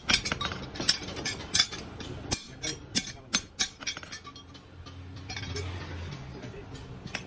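Metal clinking and tapping: a quick, irregular run of sharp clicks and clinks over the first few seconds, thinning out, with a low steady hum through the middle.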